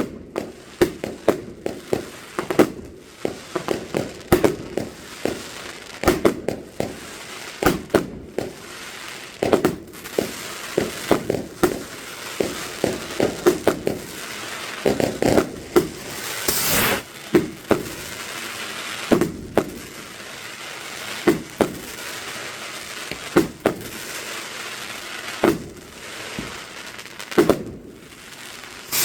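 Fireworks going off: many sharp bangs and crackles in quick, irregular succession, with a brief loud hiss just past halfway.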